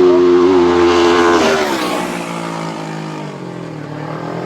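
Racing motorcycle passing close at speed, its engine note dropping sharply in pitch as it goes by about a second and a half in. Another bike's engine note rises as it approaches near the end.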